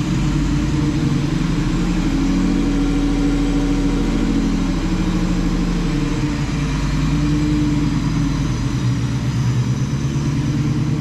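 Freshly rebuilt Ford SVT Lightning V8 idling smoothly after its first start following the engine swap, run without its accessory drive so the supercharger isn't turning. The engine note rises and settles slightly a couple of times.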